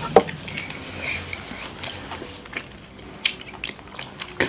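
People eating: chewing and biting food, with scattered short clicks and ticks.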